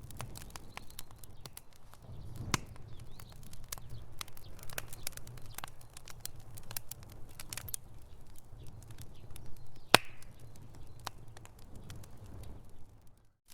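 Wood fire crackling in a fireplace: irregular small pops and snaps over a low steady rumble, with one sharp, louder pop about ten seconds in. The sound cuts out briefly right at the end.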